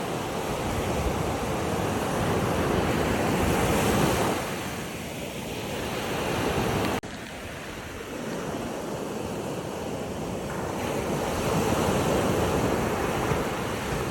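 Waves washing in and out, the noise swelling and ebbing over several seconds, with wind on the microphone. The sound cuts out abruptly for an instant about halfway through.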